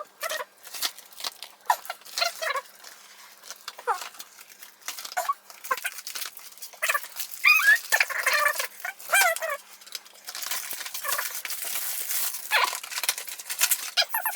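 Crinkling plastic wrapping and the clicks of a box of Belgian chocolates being handled and opened. The crinkling is densest near the end, and there are short wordless wavering vocal sounds in the middle.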